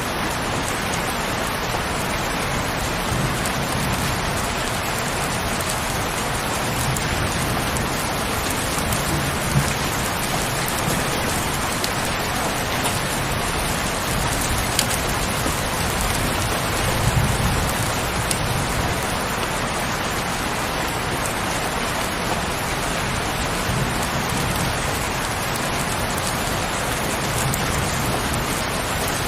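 Heavy rain falling steadily in a dense, even hiss, with occasional single drops ticking. A low rumble swells up about halfway through.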